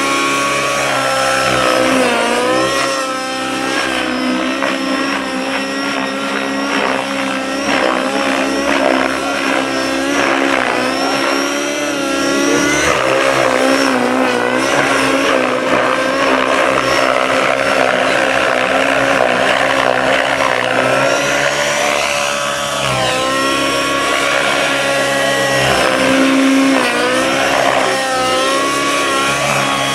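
Radio-controlled model helicopter in flight, its engine and rotor whining steadily, the pitch dipping and rising again and again as it manoeuvres, with a run of quick swoops in the last several seconds.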